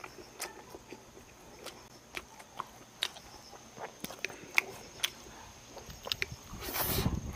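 A person chewing and biting food, with scattered small clicks and ticks. A louder, fuller noise comes about seven seconds in.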